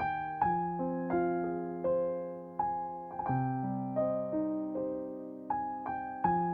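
Gentle solo piano background music: single notes and soft chords struck roughly once a second and left to ring and fade.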